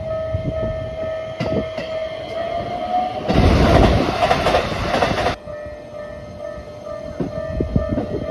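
Keikyū electric train at the station: a steady motor whine that rises a little in pitch, then a loud hiss-like rush lasting about two seconds that cuts off suddenly, with scattered low wheel knocks.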